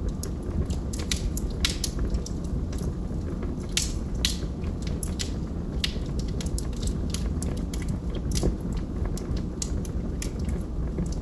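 Wood fire crackling in a fireplace: irregular sharp snaps and pops, a couple of them louder about four seconds in, over a steady low rumble.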